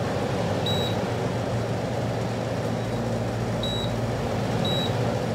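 RINKMO 296 PPD commercial dehumidifier running with its fan on high: a steady whoosh of air over a low hum. Its control panel gives short high beeps three times, once just under a second in and twice near the end.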